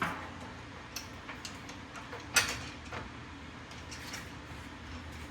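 Hand tools clinking on metal: a scattered series of sharp clinks and taps from wrench work on the truck's rear suspension, the loudest right at the start and about two and a half seconds in.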